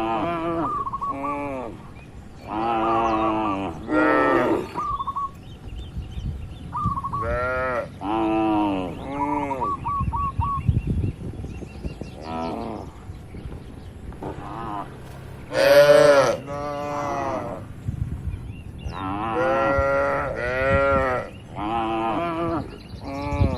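Cattle mooing over and over: many short moos, often two or three in quick succession, with the loudest call about two-thirds of the way through.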